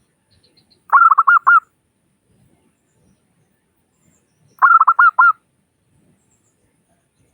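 Local zebra dove (perkutut) singing: two short cooing phrases about three and a half seconds apart, each a quick run of five or so rapid notes.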